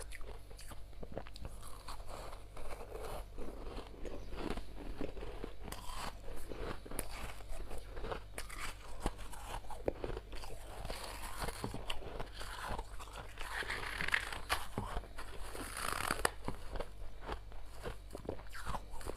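Soft freezer frost being bitten and chewed: continuous crunching and crackling, with a steady low hum underneath.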